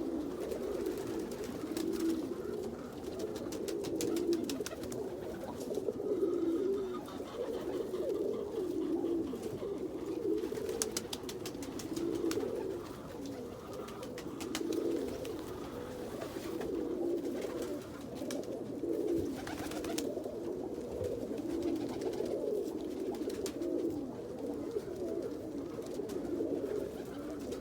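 Domestic fancy pigeons, Indian Fantails among them, cooing together: many low coos overlapping in a steady, swelling chorus, with a few short sharp clicks around the middle.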